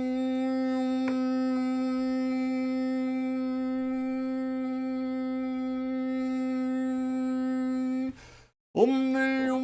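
A steady, sustained drone note held at one pitch without change. Near the end it cuts out for about half a second, then comes back with a short upward slide into the same note.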